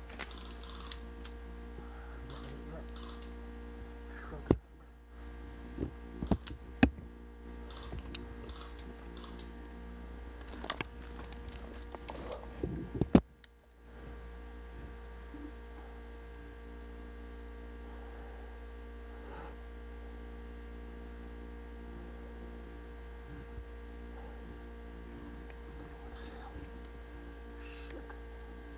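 Steady electrical hum, with irregular sharp clicks and knocks through the first half that dip out briefly twice, then only the hum.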